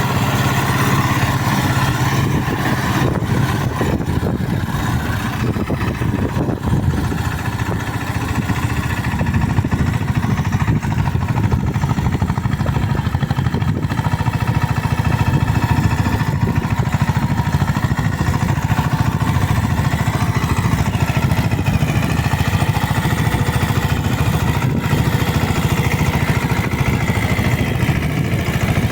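Eicher 188 mini tractor's diesel engine running steadily.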